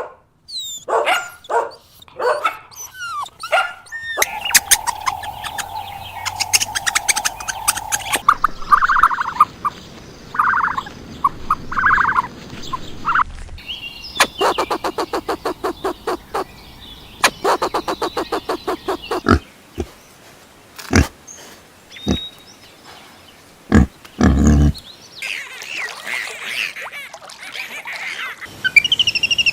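A succession of different animal calls and noises, one after another: short pitched cries, fast clicking runs and a brief loud low burst about three-quarters of the way through.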